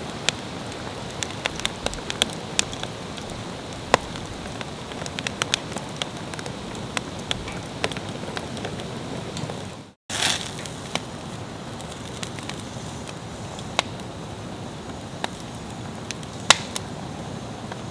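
Wood campfire crackling: irregular sharp pops and snaps over a steady hiss, broken by a brief gap about ten seconds in.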